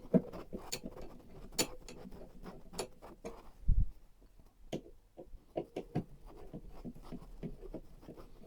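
Irregular clicks, taps and light knocks of computer hardware being handled and fitted, with one dull thump about three and a half seconds in.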